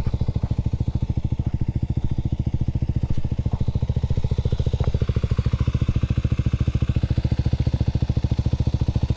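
Kawasaki KLX300SM's single-cylinder four-stroke engine idling steadily, in an even, unchanging beat.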